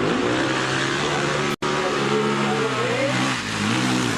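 Motocross motorcycle engine running at a steady pitch, with a brief gap about one and a half seconds in; near the end the pitch drops and rises again as the throttle is worked.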